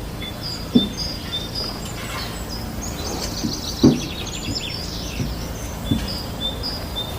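Birds chirping, with short high calls repeating every half second or so, over a steady low background rumble. A few dull thumps sound now and then, the loudest about four seconds in.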